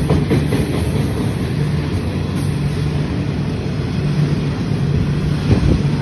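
Loaded coal freight train rolling past: a steady rumble of wagon wheels on the rails, with a few sharp wheel clicks near the end.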